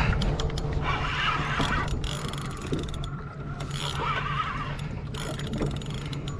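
Fishing reel ratcheting and whining in short spells as a large shark is played on heavy tackle, with scattered clicks over a steady low hum.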